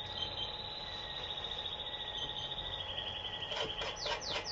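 A small bird trills high and steadily, dropping a little in pitch about three seconds in. Near the end it breaks into several quick falling chirps, and a stroke or two of a metal box grater rasping lemon peel can be heard.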